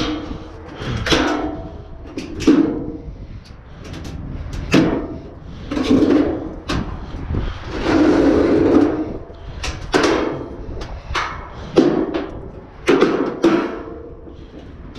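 Dry, ungreased metal pivots on scrapped furniture squeaking as the parts are worked back and forth, several times, with sharp metal knocks in between.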